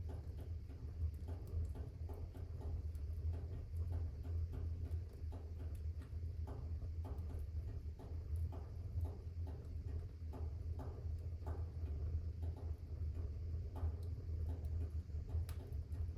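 Wood fire burning in a fireplace: a steady low rumble of the flames with frequent small crackles and pops, and one sharper pop near the end.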